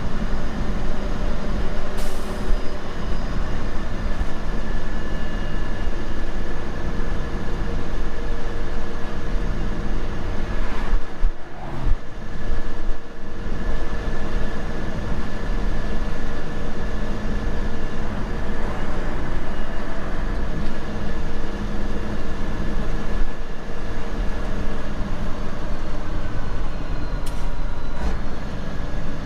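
Semi truck's diesel engine running steadily, heard from inside the cab as a continuous low drone. A sharp click sounds about two seconds in and another near the end.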